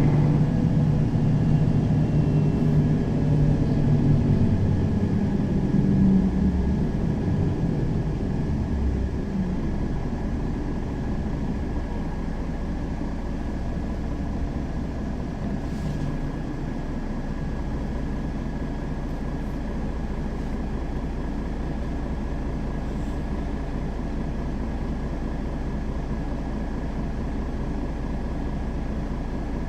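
Mercedes-Benz Citaro facelift city bus's diesel engine, loud and pulling at first, dying down over the first ten seconds or so. It then settles to a steady low hum, with a thin steady whine above it.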